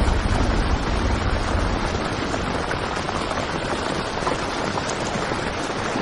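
Heavy rain falling on a tent, a dense, even patter of drops. A low rumble under it fades out about a second and a half in.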